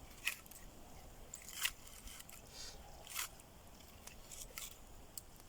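Wood campfire crackling: faint, scattered sharp snaps at irregular intervals, about one a second.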